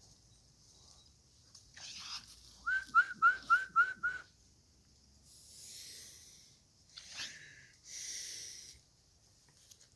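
A person whistling six quick, evenly spaced, loud notes, each with a slight upward flick, followed by two short breathy hissing sounds.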